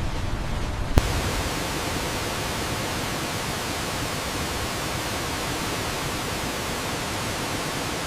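Steady rushing hiss of falling water from a waterfall, with a sharp click about a second in.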